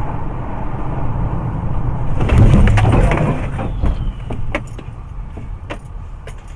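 Heavy vehicle rumbling, swelling loudest about two seconds in, followed by scattered sharp cracks and knocks as it dies down.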